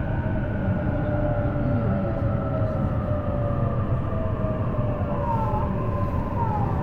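Onboard running sound of a JR East E233 series electric train: a steady rumble of wheels on rail with the traction motor whine slowly falling in pitch, and a few brief squeals near the end.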